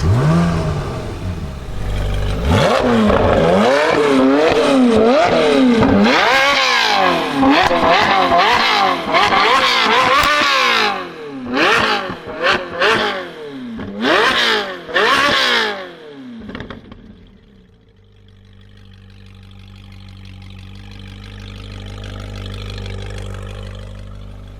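Ferrari 458 Speciale's V8 with straight-piped exhaust, just started, flares and is then revved again and again, the pitch rising and falling in quick sweeps. A few short, sharp blips follow near the middle. It then drops to a low, steady idle for the last several seconds.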